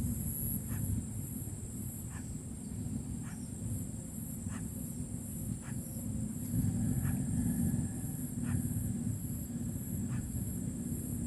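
Outdoor rural ambience: a steady low rumble like wind on the microphone, under a constant high-pitched drone and a pulsing high buzz. Short sharp chips or clicks come about once a second throughout.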